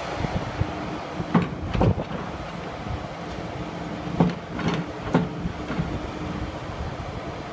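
Ingersoll Rand ZX125's engine running steadily, with a handful of sharp clunks and knocks from the machine about 1.5, 2, 4 and 5 seconds in. Wind noise on the microphone.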